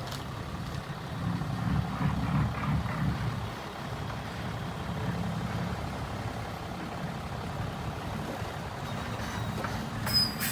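Diesel engine of heavy earthmoving machinery running steadily, swelling louder for a couple of seconds early on, with a short sharp clank near the end.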